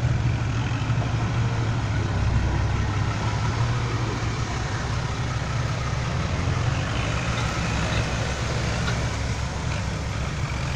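Diesel engine of a loaded six-wheel dump truck running steadily as it drives, a continuous low drone with even road noise over it.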